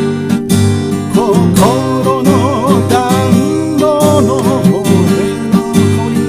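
Acoustic guitar strummed in a steady rhythm as song accompaniment, with a wavering melody line over it from about a second in until past the middle.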